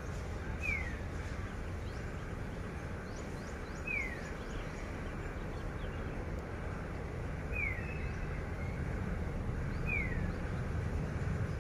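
A bird repeats a short, falling whistle four times, about every three seconds, with fainter chirps from other birds. Underneath is a steady low rumble that grows slightly louder toward the end.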